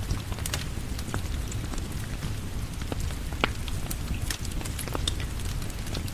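Steady rain with a wood fire crackling, sharp pops coming at irregular moments.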